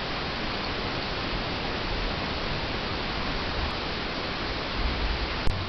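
Steady, even hiss with a low rumble underneath and one sharp click near the end.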